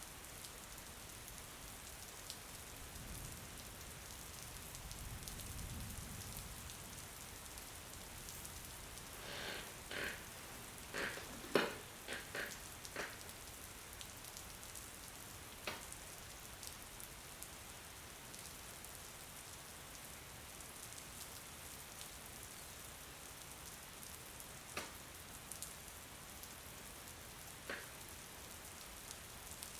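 Steady rain falling, with a low rumble rising and fading a few seconds in. About ten seconds in there is a quick run of sharper taps, the loudest near the middle, and a few single taps follow later.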